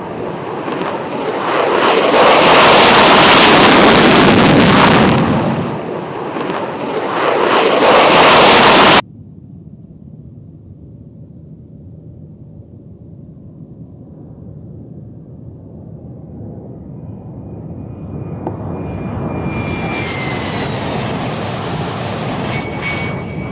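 F-16 fighter jet engine noise: a very loud jet roar for the first nine seconds, easing briefly around the middle, then cutting off suddenly. A quieter jet rumble follows and builds again, with a high turbine whine over it near the end.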